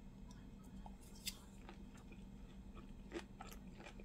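Faint chewing with a few short, crisp crunches: a mouthful of pan-fried thin-sliced pork belly rolled around crunchy green vegetables being eaten.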